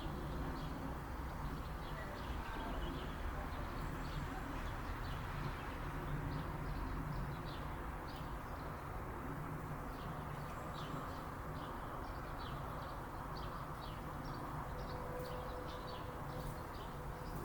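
Small birds chirping: many short, high calls scattered throughout, over a steady low background rumble.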